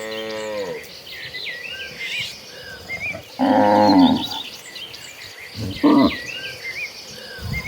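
Cattle mooing: a falling moo at the start, a louder, longer moo about three and a half seconds in, and a short call near six seconds. Small birds chirp throughout.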